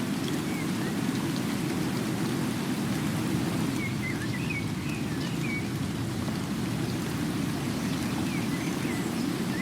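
Steady rain falling, an even hiss with a low rumble underneath. A few short bird chirps come in small clusters in the middle and near the end.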